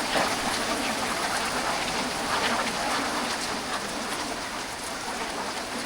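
Steady rain falling, an even continuous patter with a few separate drips standing out.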